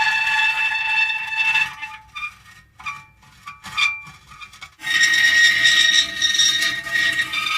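Metal creaking: long, steady, high-pitched squealing creaks, broken in the middle by a few short separate squeaks before another long squeal starts about five seconds in.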